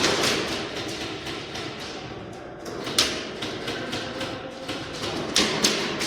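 Airsoft gunfire in an indoor arena: a continuous clatter of shots and BBs striking, with sharper cracks at the start, about three seconds in and twice near the end.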